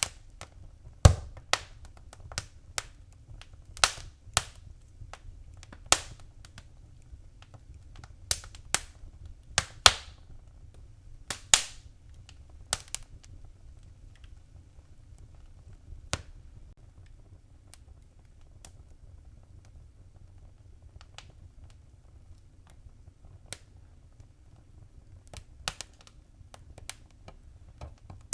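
Wood fire crackling with irregular sharp pops, many in the first half and fewer later, over a low steady rumble.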